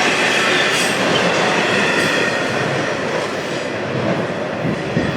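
Freight train of intermodal container cars rolling past: steady rumble and clatter of steel wheels on the rails, easing off slightly near the end.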